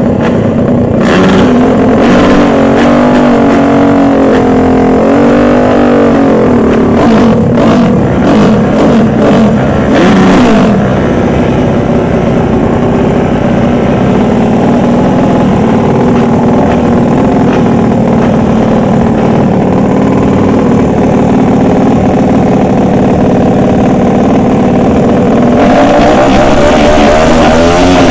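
Racing motorcycle engines running loud and revving hard, pitch rising and falling over the first few seconds and then holding steadier.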